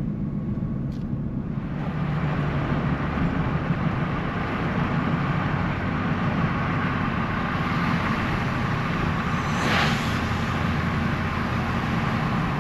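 Vehicle driving on the road: steady low engine and tyre rumble, with road and wind hiss building about two seconds in and a brief swell of hiss near the end.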